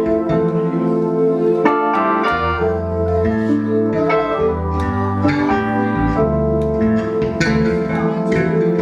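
Live band playing an instrumental passage: held chords over a moving bass line, with regular drum hits.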